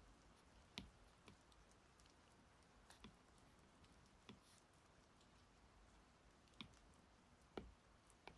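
Faint, scattered clicks of a stylus tapping on an iPad's glass screen, about seven over the span, irregularly spaced, over a low steady background hiss.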